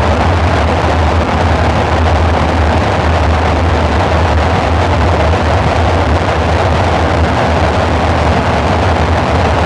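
Dark ambient synthesizer drone: a steady, loud wash of noise over a deep low rumble, unchanging throughout.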